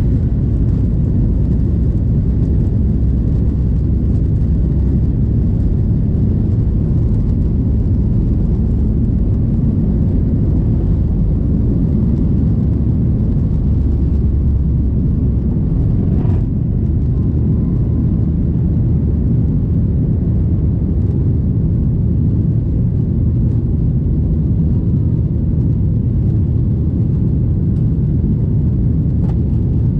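Airliner engine and airflow noise heard inside the passenger cabin: a loud, steady low rumble, with a single faint click about halfway through.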